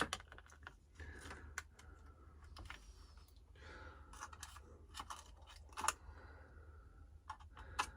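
Faint scattered clicks, taps and rustling of small engine parts and containers being handled, over a faint low hum.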